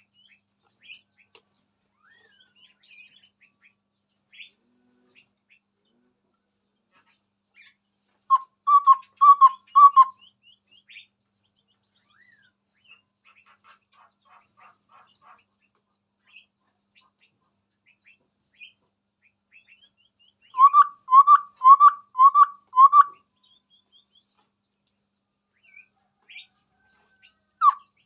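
Chestnut-rumped babbler calling: a run of four short, evenly spaced notes, each with a quick upward sweep, about eight seconds in, and a second run of five around twenty-one seconds. Faint, high chirps fill the gaps between the runs.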